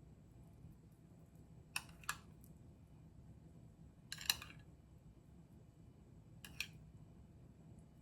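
A few light clicks and taps over a low steady background: a quick double click about two seconds in, a slightly longer scraping tap a little past the middle, and another double click near the end.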